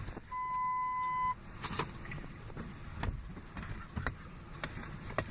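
A single steady beep about a second long, then a series of sharp knocks roughly a second apart from someone hitting the back of a car seat, over the low rumble of the car cabin.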